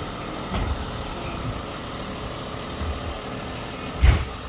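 Delivery truck's engine idling steadily, with a few low thuds and a sharp, loud thump about four seconds in.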